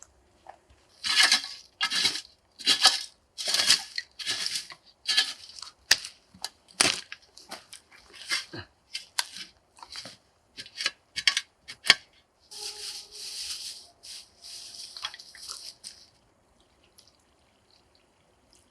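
Repeated short crunching scrapes, about one or two a second, then a few seconds of steady rushing noise before it goes nearly quiet.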